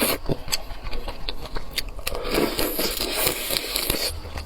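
Close-miked chewing and mouth sounds of a person eating seafood: wet smacking and slurping with many short sharp clicks all the way through.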